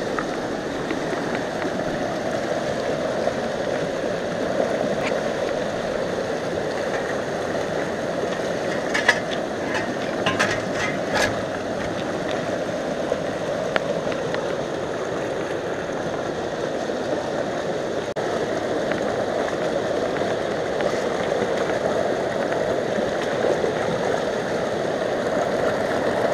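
Steady rushing of river water, with a few sharp clicks about a third of the way in.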